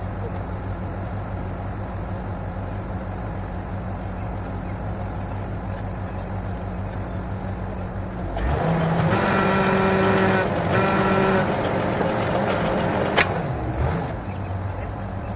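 Engine of a borewell drilling rig running steadily. About eight seconds in, a louder sound with several steady tones comes in for roughly five seconds, with a sharp knock near its end, before the steady running resumes.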